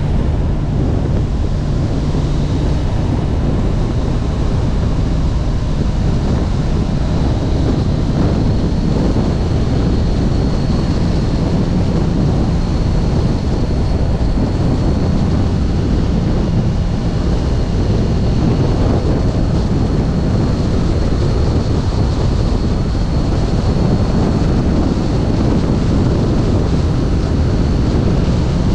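Wind rushing over an action camera's microphone at riding speed, with a Kawasaki Ninja 1000SX's inline-four engine running steadily underneath.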